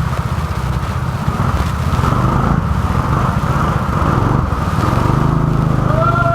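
Go-kart engine running with a rapid, steady firing beat, a little louder from about five seconds in.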